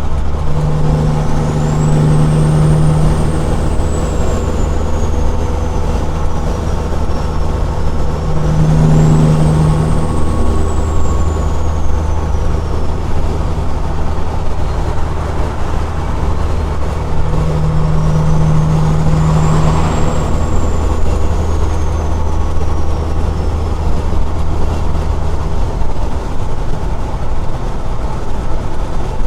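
Straight-piped Caterpillar 6NZ diesel truck engine running under way with a steady, loud low drone. A stronger note swells three times, and a faint high whistle rises and falls three times.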